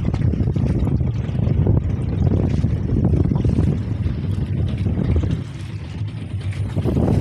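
A boat's engine running with a steady low hum, with wind buffeting the microphone; the noise eases a little past five seconds in.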